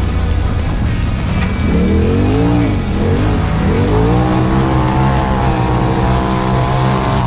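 Side-by-side UTV engine revving up and down twice through the gears, then holding high revs at a steady pitch under full throttle.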